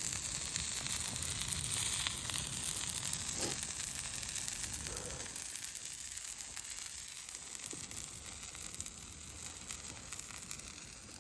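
Food sizzling in a hot frying pan, a steady hiss that slowly gets quieter.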